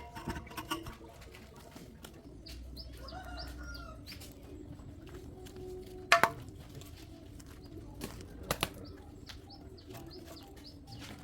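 Birds calling in the background, with a few sharp knocks or clinks partway through.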